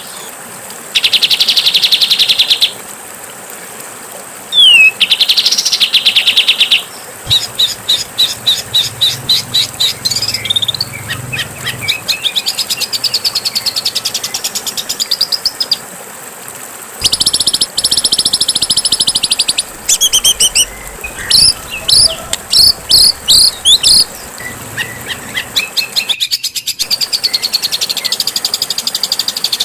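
Songbird songs spliced together as a masteran training track: loud, rapid buzzy trills and series of sharp chirping notes. The phrases start and stop abruptly, with short gaps between them, and one thin, very high trill about two-thirds of the way in.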